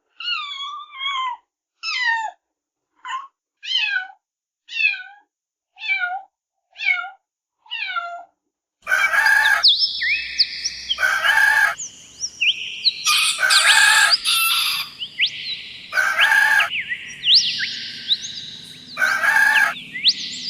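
A run of about eight short calls, each falling in pitch, roughly a second apart. About nine seconds in, a different recording of chickens takes over: loud calls recurring about every second and a half over a busy background of short high calls.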